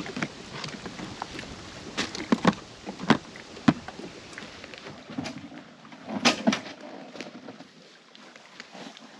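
A handful of sharp, irregular knocks and thumps, the loudest pair about six seconds in, over faint outdoor background noise.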